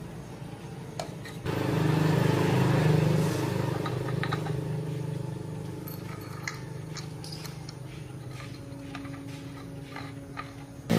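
A motor-driven machine runs with a steady hum. It grows suddenly louder about one and a half seconds in, then gradually quieter, with scattered light clicks and taps over it.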